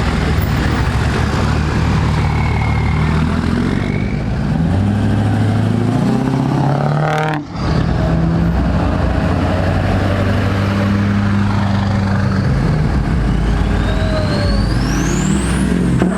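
Diesel truck engines running, their pitch stepping up and down with revs. There is a brief dropout about halfway through, and near the end a rising and falling whine.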